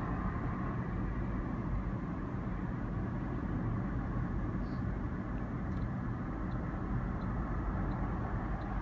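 Car driving along at a steady pace: even road and engine noise with a low rumble. Faint regular ticks, about one every 0.7 seconds, come in from about six seconds in.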